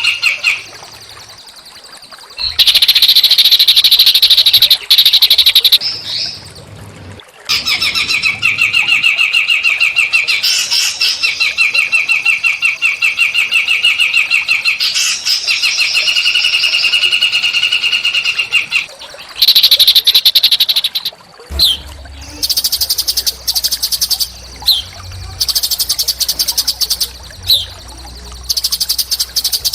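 Small songbirds singing harsh, rapid song: buzzy bursts, then a fast pulsed trill held for about ten seconds, then sharp short chirps and bursts.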